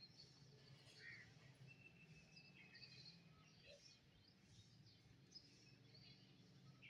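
Faint birdsong: several birds chirping in short high notes, with one thin whistled note held for over a second, over a steady low hum.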